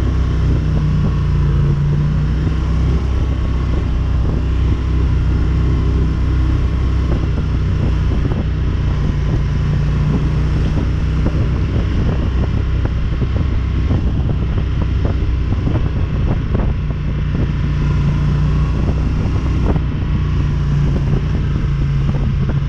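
ATV engine running at a steady note, with scattered rattling knocks through the middle stretch.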